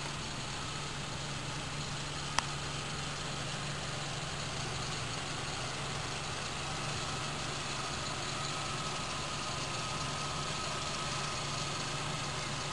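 Vehicle engine idling steadily, with a single sharp click about two seconds in.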